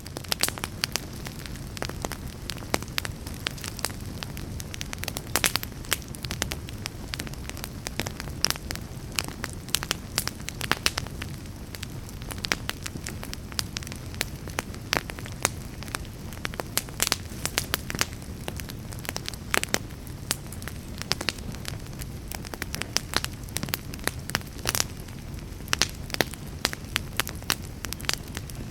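Fire burning in a fireplace, crackling and popping: many sharp, irregular pops over a steady low rumble.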